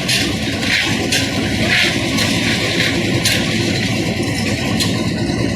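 Concrete mixer machine running, its drum turning and tumbling the mix. The noise is loud and continuous, with a rush of noise coming round every second or so.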